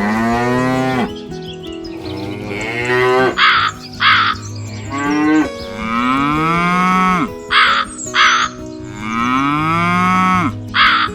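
Cattle mooing repeatedly, each long moo rising and then falling in pitch, with a crow cawing in short pairs between the moos.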